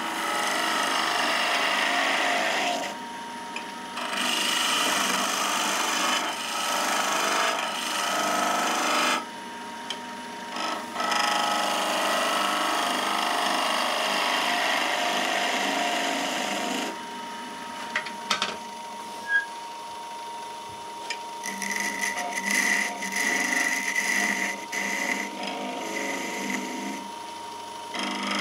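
Wood lathe running while a turning tool cuts spinning pine, in passes of a few seconds each with short pauses, the lathe's steady hum underneath. The cuts grow lighter and more broken near the end.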